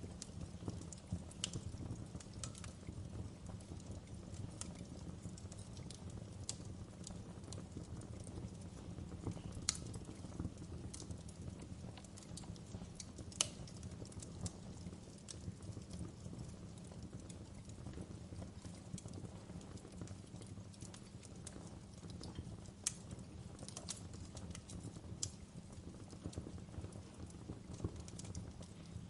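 Fire burning in a fireplace: a steady low rumble with irregular sharp crackles and pops, a few of them louder than the rest.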